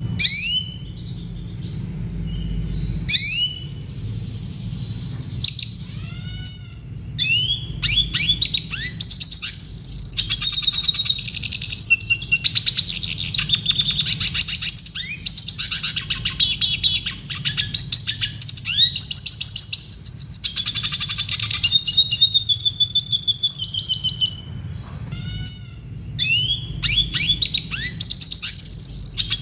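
Red siskin singing: a few sweeping call notes, then long runs of fast trills with a short break in the middle, more single calls, and trilling again near the end, over a steady low hum.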